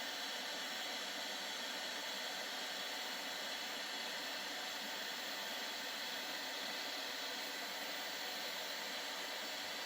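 Bambu Lab X1C 3D printer running, its fans giving a steady, even hiss.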